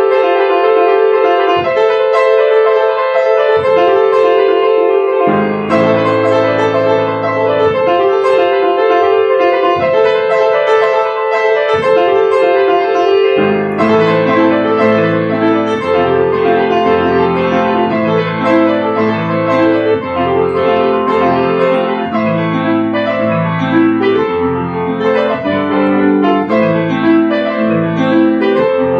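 Solo piano played continuously: a busy run of quick notes over a repeated mid-range figure, with low bass notes entering about five seconds in and heavier low chords from about halfway through.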